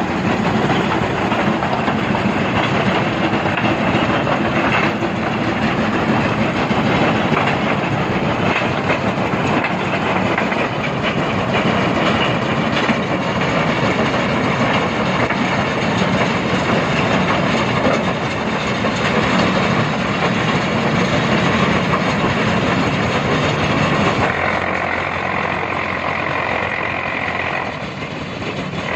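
Heavy machinery running with a loud, continuous dense clatter over a diesel engine. About 24 seconds in the clatter drops away and mostly the engine is left.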